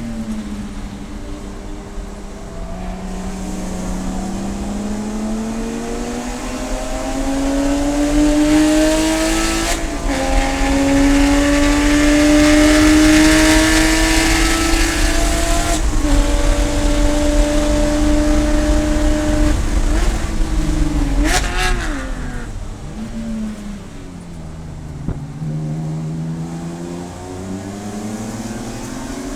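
Race car engine under hard acceleration, its pitch climbing and dropping twice as it shifts up, then falling off with a quick rev blip on a downshift about two thirds of the way in, before picking up again near the end.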